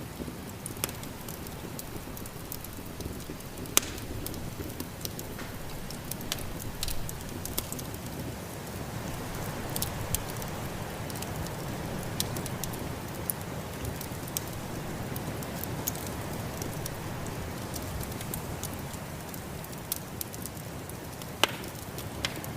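Wood fire crackling with scattered sharp pops, the loudest about four seconds in and near the end, over a steady rush of snowstorm wind.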